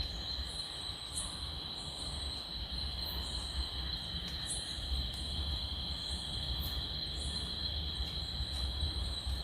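Night insects calling: a steady, high, shrill cricket trill, with a higher chirp repeating about once a second, over a low rumble.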